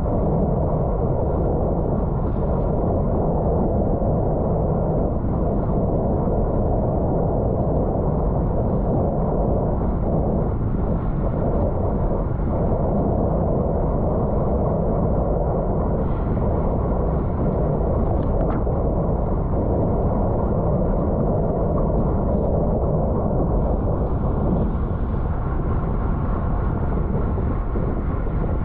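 Steady wind noise buffeting the microphone of a camera on a road bike ridden hard at speed.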